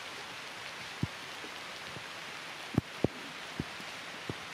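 Rain falling on forest leaves: a steady hiss with single heavy drops striking now and then, about five in all. The loudest two land close together about three seconds in.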